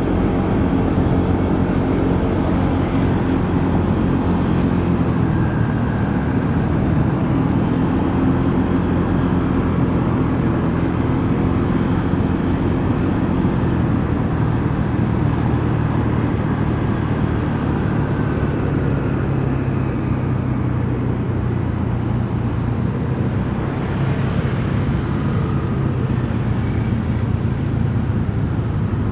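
Motorcycle engine running at road speed amid city traffic noise, its note dropping lower about halfway through.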